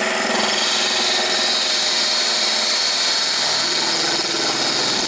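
Wood lathe running with a turning tool cutting into the spinning wood, a steady scraping hiss over the lathe's motor hum, as the bevel on a tenon is shaped. The cutting hiss grows stronger about half a second in.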